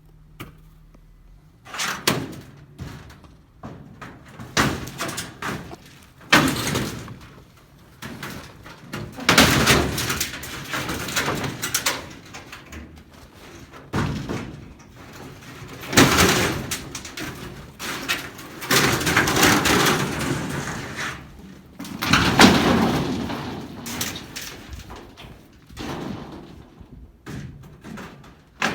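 Corrugated sheet-metal roofing being pulled apart and handled: irregular bursts of rattling and scraping with sharp bangs, some stretches lasting two or three seconds.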